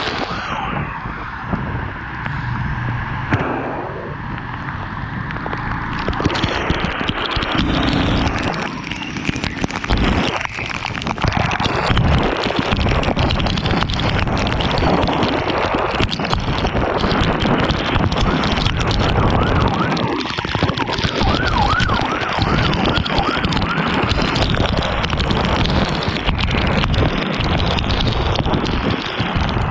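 Road, wind and rain noise on the microphone of a vehicle riding through rain in traffic. It is a dense, steady rush that grows louder a few seconds in.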